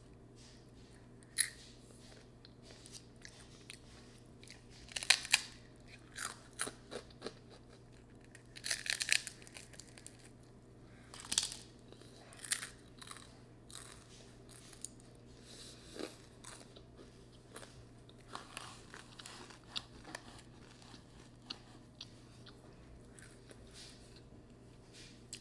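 A person chewing food with the mouth close to the microphone: irregular wet smacks and crunchy clicks, some in short clusters, with quiet gaps between. A faint steady low hum runs underneath.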